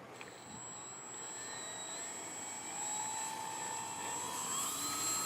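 Electric motor and propeller of a Dynam Spitfire radio-controlled model plane in flight, a steady whine that rises in pitch and grows louder over the last couple of seconds.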